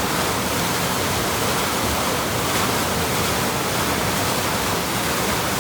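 Water pouring over a canal weir or lock, a steady rushing roar with no breaks.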